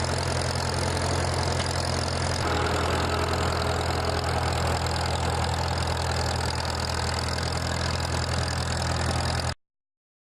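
Tractor engine running steadily, with a slight change in its sound about two and a half seconds in; the sound cuts off suddenly near the end.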